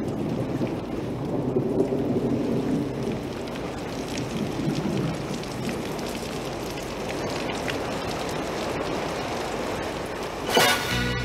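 Heavy rain pouring down steadily on a cobbled street, a dense rushing splatter with a low rumble beneath. About ten and a half seconds in, a sudden loud burst of music cuts in over the rain.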